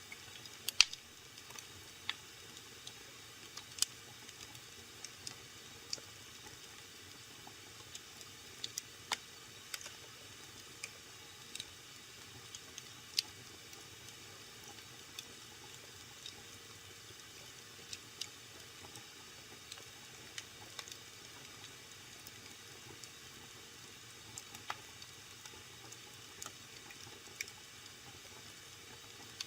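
Wood fire burning in a fireplace, crackling: irregular sharp pops and snaps over a faint steady hiss, the loudest pop about a second in.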